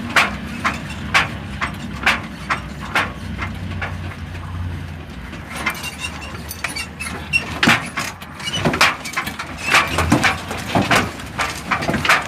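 Ural 6x6 truck driving, its engine making a steady low drone overlaid by frequent irregular knocks and rattles.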